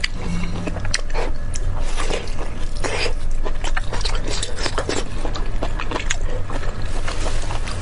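Close-miked mouth sounds of eating braised intestine: wet chewing and lip smacks with many sharp clicks, over a steady low hum.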